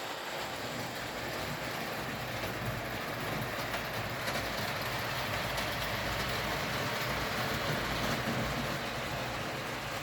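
Bing tinplate 0 gauge toy steam locomotive running on its track: a steady rushing noise with faint irregular clicking, getting a little louder in the middle.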